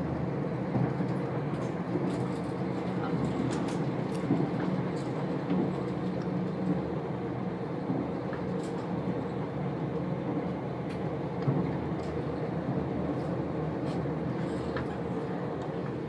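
Running noise of a moving passenger train heard from inside the carriage: a steady low drone with a few faint clicks.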